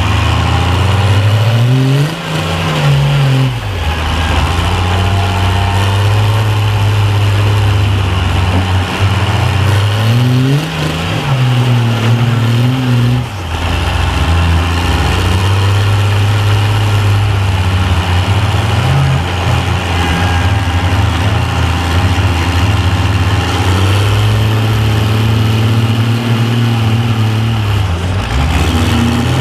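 Engines of tractor-tired off-road mud trucks straining under load in a tug of war, running loud and steady at high revs. The revs surge up and back down about two seconds in and again about ten seconds in.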